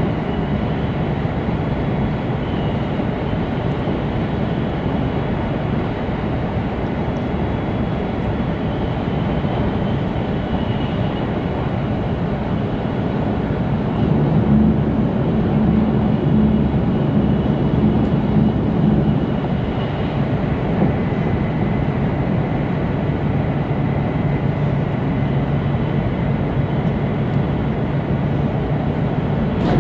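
Interior running noise of an E2 series Shinkansen car at speed: a steady rumble of wheels and air. It swells louder for several seconds around the middle, with a low hum.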